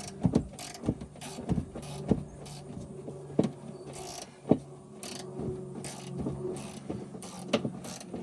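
Hand wrench clicking and scraping against a 10 mm bolt in short, irregular strokes as the bolt is worked loose by hand, with a steady low hum underneath.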